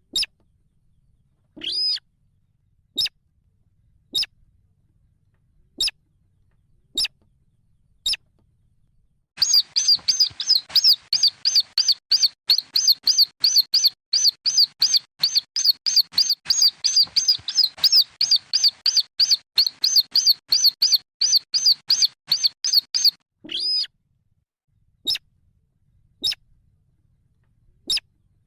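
Slaty-breasted rail (sintar, weris) chicks peeping: short, high-pitched single peeps about a second apart, breaking midway into a long rapid run of peeps several a second, then back to single peeps near the end.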